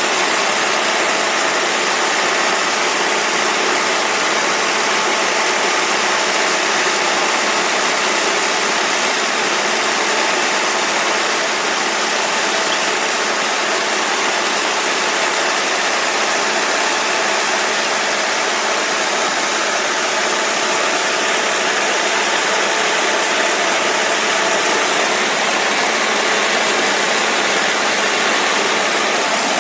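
Niva SK-5 combine harvester's SMD diesel engine running steadily, with a thin, high whistle held over the engine noise.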